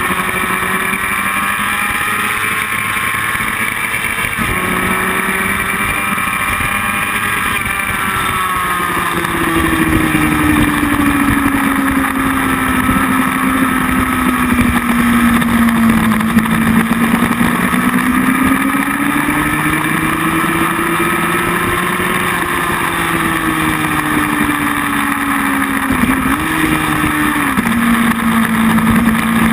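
Motorcycle engine running on a track lap, its pitch rising and falling slowly as the rider goes on and off the throttle, over a steady rush of wind noise. There is a brief jump in engine pitch near the end.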